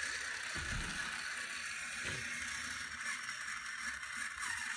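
Battery-powered TrackMaster toy train running around its plastic track: a steady gear-motor whir.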